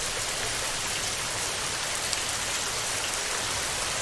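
Heavy rain on a tin roof, a dense, even hiss of drops that holds steady.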